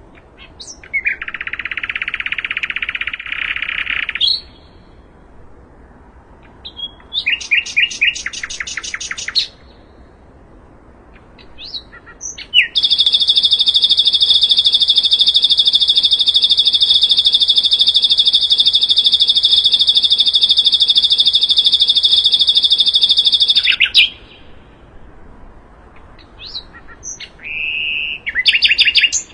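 Common nightingale (sikatan londo) singing in separate phrases: a dense buzzy phrase, a rapid trill of repeated notes, then a long, steady, high rattling note lasting about eleven seconds, and a few short notes near the end.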